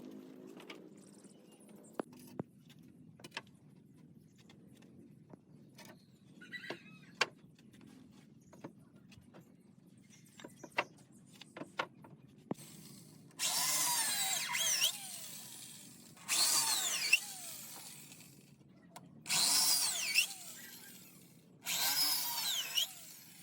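Power tool working wood in four short runs of about a second and a half each in the second half, its pitch sweeping as it bites. Before that, scattered light knocks and taps on wood.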